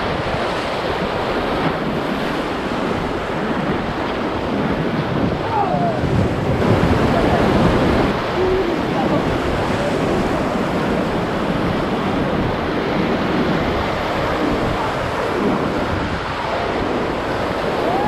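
Whitewater rushing around a raft on the Ocoee River, a steady loud roar of churning rapids, with wind on the microphone.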